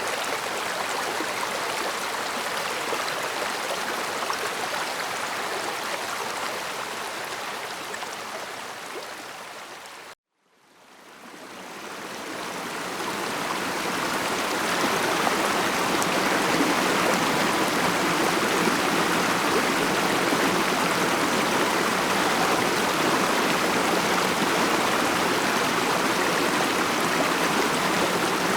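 Stream water flowing steadily over its bed. About ten seconds in it fades out to a moment of silence, then fades back in, fuller and slightly louder.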